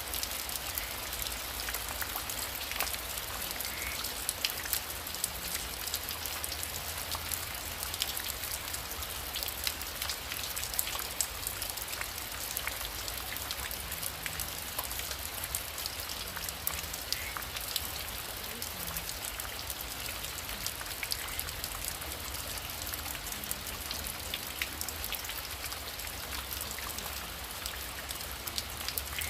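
Heavy rain falling steadily, a dense hiss with many separate drops ticking through it.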